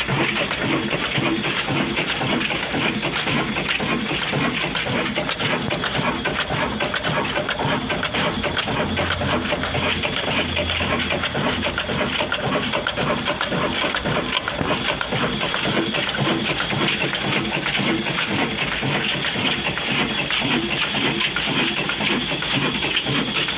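Old Ruston diesel engine running steadily, with a dense, even clatter.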